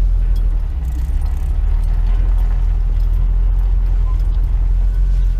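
Steady engine drone and road noise of a vehicle being driven, heard from inside the cab.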